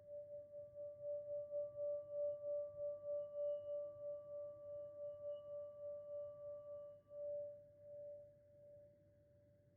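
Singing bowl played to a sustained ringing tone, its loudness wavering in a slow pulse about three times a second. The tone dips and swells once, then fades away to a faint ring over the last couple of seconds.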